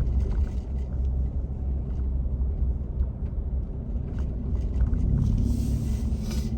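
Car driving along a road, heard from inside: a steady low rumble of engine and road noise, with a louder hiss building up about four seconds in.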